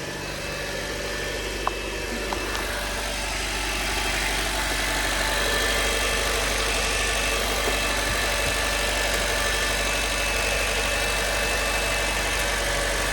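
A car engine idling steadily close by, with a deep hum under a strong hiss; it grows a little louder over the first few seconds.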